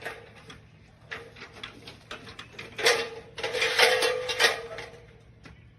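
Light metal clicking and clattering, building about three seconds in to a second or so of continuous rattling with a faint ringing tone under it, as of thin metal being handled and knocked about.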